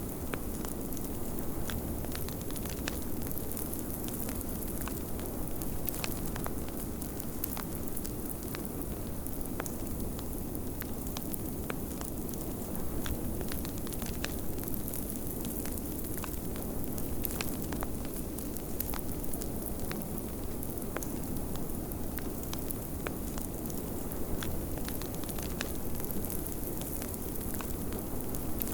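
Wood fire crackling in a fireplace, scattered sharp pops and clicks over a steady low rush of blizzard wind.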